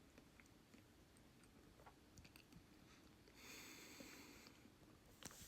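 Near silence, with a few faint small clicks and a brief soft hiss about three and a half seconds in.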